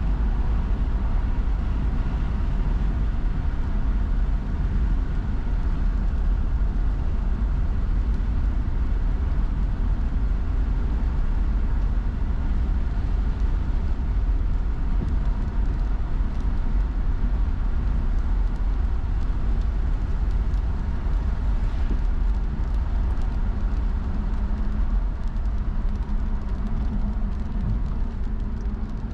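A car driving on a wet road: steady low rumble of tyres and engine, with a few faint ticks in the last few seconds.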